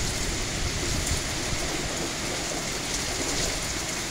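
Hurricane rain pouring down in a steady, even rush, with wind behind it.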